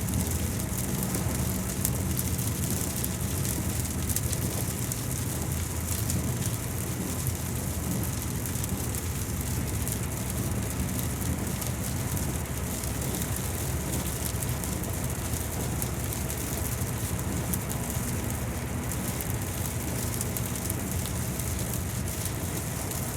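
Steady rain falling, a dense patter of drops over a low, steady rumble.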